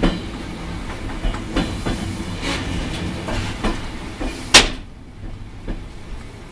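Passenger train carriage running slowly on the rails, a low rumble with irregular wheel clicks and knocks. One loud, sharp knock comes about four and a half seconds in, after which the running noise is quieter.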